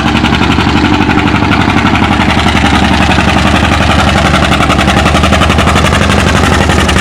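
John Deere A's two-cylinder engine running hard under load as the tractor pulls the sled, a steady, even, rapid pulsing.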